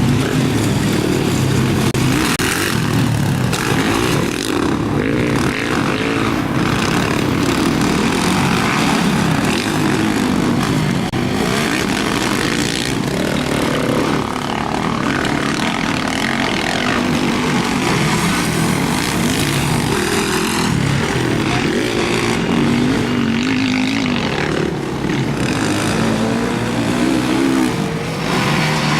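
Motocross motorcycles racing, several engines revving up and down over one another, loud throughout.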